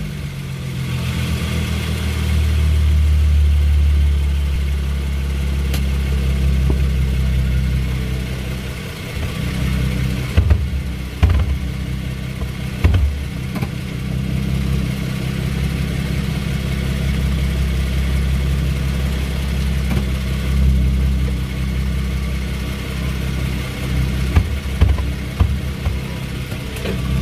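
2016 Ford Mustang's 3.7-litre V6 running steadily at low speed, with several hard clunks around the middle and a cluster more near the end. These are the clunks that come only when turning left and in reverse, which the owner says sound like something binding.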